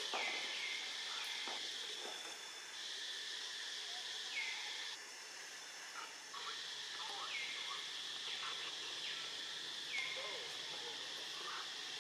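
Steady high-pitched insect chorus, with short falling chirps about every three seconds.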